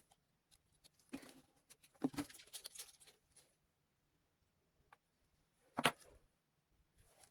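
Faint handling noises: scattered light clicks and rustles of small objects being moved, with a cluster about a second in and one sharper click near the end.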